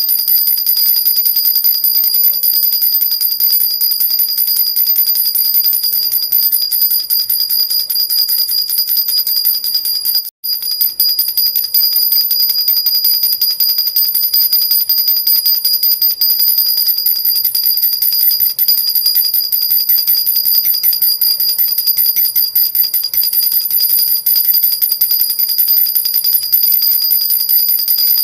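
Silver jhunjhuna baby rattle shaken without pause, giving a dense, steady, high jingle of small bells. It cuts out for an instant about ten seconds in.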